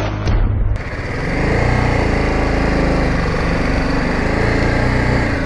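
Intro music cuts off under a second in, giving way to a motorcycle engine running steadily.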